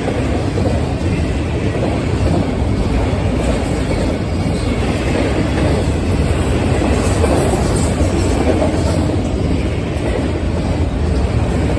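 Florida East Coast Railway train rolling past, its cars and wheels on the rails making a steady, loud rumble.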